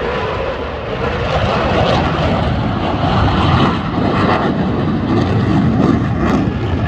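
A fixed-wing aircraft flying past, its engine noise loud and steady. It grows louder about a second in.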